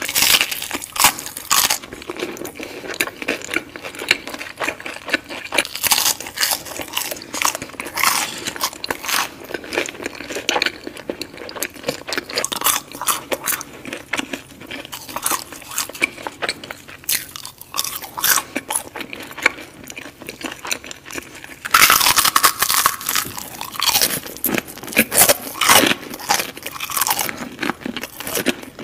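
Close-miked crunching and chewing of crispy deep-fried battered food, crackling with each chew. About 22 seconds in, the crunching turns louder and denser.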